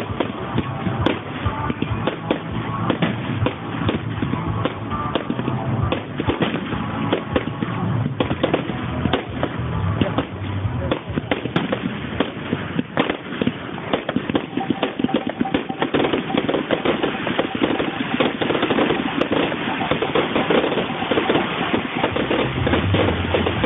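A fireworks display: rapid crackling and banging of bursting fireworks, many sharp cracks a second throughout, heard through a phone's microphone.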